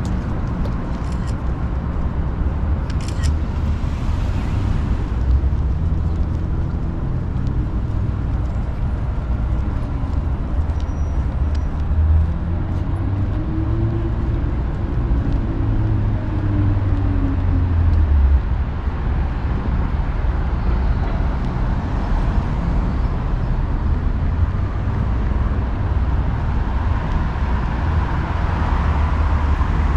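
City street traffic: a steady low rumble of passing cars, with one vehicle's engine note rising and then falling as it goes by about halfway through.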